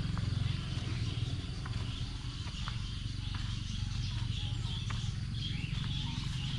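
Forest ambience: birds chirping and warbling over a steady low rumble, with scattered faint ticks.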